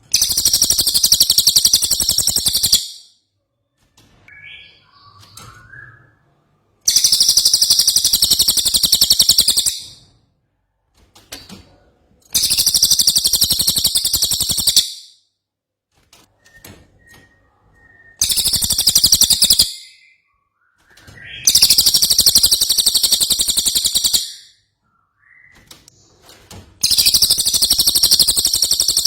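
Cililin songbird singing in loud bursts of a very fast, high trill, each about three seconds long and repeated six times, with faint softer chirps in the gaps.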